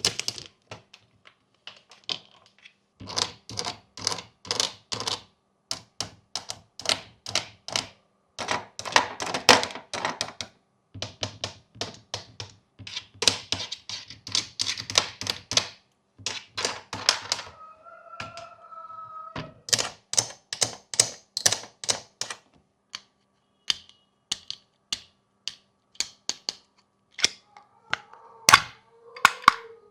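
Plastic fidget toy buttons clicking in quick runs, about four clicks a second, with short pauses between runs. A brief pitched tone sounds about two-thirds of the way through.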